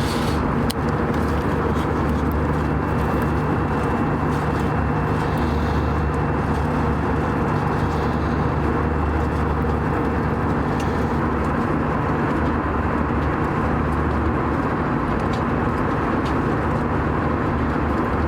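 Steady cabin drone inside an Airbus A319: engine and airflow noise with a constant low hum, even in level throughout.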